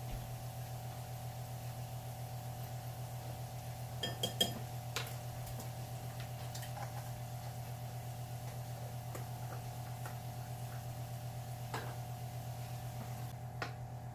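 A utensil clinks against kitchen dishware: a quick cluster of clinks with a short ring about four seconds in, then a few faint taps. A steady electrical hum runs underneath.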